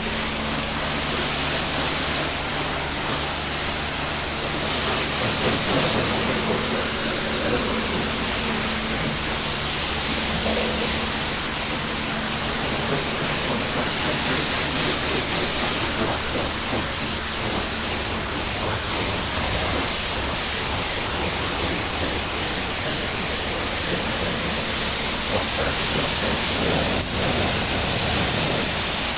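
Kärcher K2 electric pressure washer running, its water jet spraying with a steady hiss, under a faint steady motor hum.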